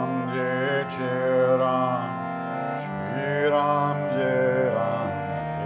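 Kirtan chanting: a voice sings a long, wavering mantra line over a steady harmonium drone.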